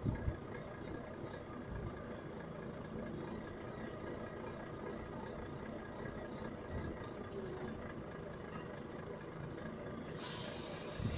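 Volvo Euro 6 truck's diesel engine idling steadily, with a thump at the start and a burst of hissing air near the end.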